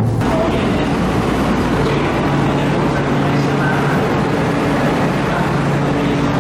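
Steady running noise of a vehicle in motion, a dense even rumble with a faint low hum.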